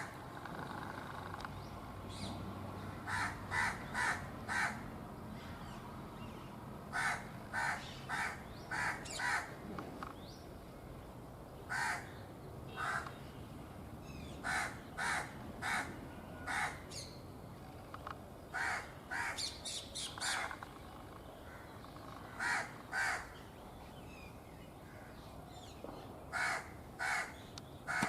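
A crow cawing in runs of two to six quick calls, a new run every few seconds.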